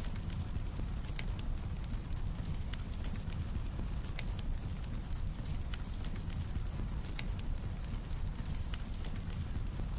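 Campfire crackling, with irregular sharp pops over a low steady rumble, and crickets chirping in a steady high pulsing trill.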